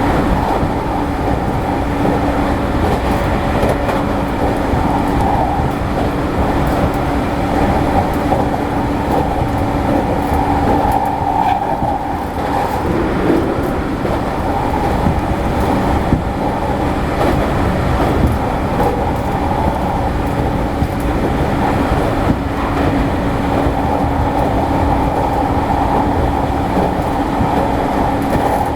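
Heard from inside the passenger cabin of a JR East E217 series electric commuter train car running along the line: a continuous rumble of wheels on rail with faint clicks at the rail joints. Over it runs a steady hum that drops away for several seconds around the middle and returns later.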